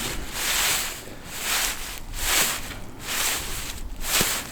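Rhythmic swishing of arms and legs sweeping through snow while a snow angel is made, a soft hissing swell about every three quarters of a second.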